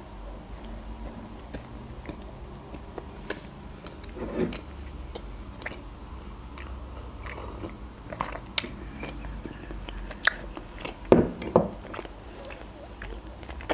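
Close-up mouth sounds of someone biting into and chewing a soft frosted cinnamon roll: scattered wet clicks and smacks. There are a few louder mouth sounds midway and near the end, including a sip from a mug.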